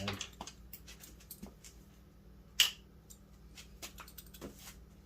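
Scattered small clicks and taps of metal parts inside a Fox-body Mustang door as the door handle's linkage rod is worked off, with one sharper click about two and a half seconds in.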